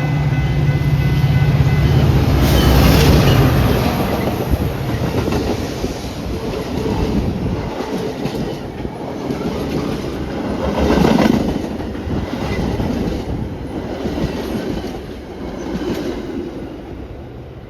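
A train passing close by: a low steady engine hum in the first few seconds, then the wheels of the railcars clattering over the rail joints, easing off near the end.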